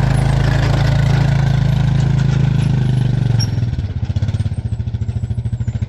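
A small engine running steadily, then easing down into a lower, pulsing idle about three and a half seconds in.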